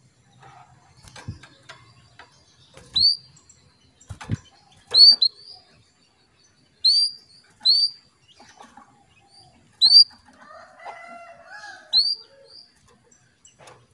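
Female canary giving short, single rising call notes, one every second or two: the call used to stir a male canary into singing. A few soft knocks and a rustle come in between the calls.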